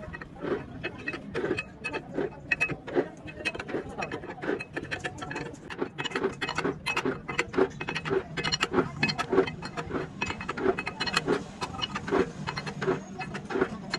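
Metal tool work on tractor parts: a rapid, irregular run of clicks and knocks over a low steady hum.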